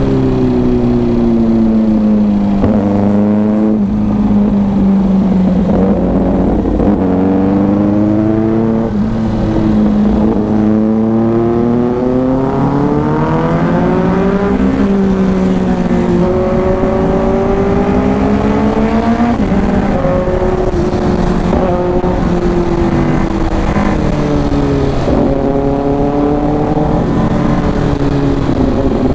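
Kawasaki Ninja 650's parallel-twin engine running under way, its note rising and falling with the throttle. There is a long climb in pitch about halfway through and a sudden drop a few seconds later.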